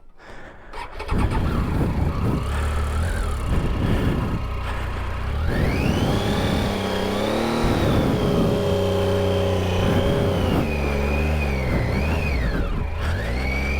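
Motorcycle engine revving hard under load on a steep dirt hill climb. It picks up about a second in, climbs in pitch around the middle, holds there for several seconds, then drops and rises again near the end.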